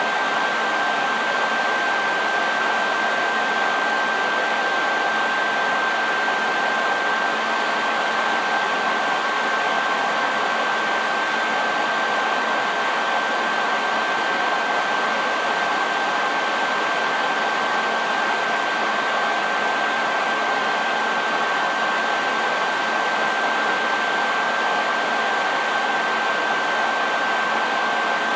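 Hair dryer running steadily: an even rush of blown air with a thin constant whine from its motor.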